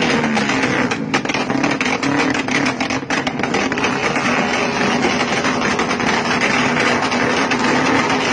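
Motorcycle engine running loud through an aftermarket exhaust, held at a fast, steady idle, with brief dips in level about one and three seconds in.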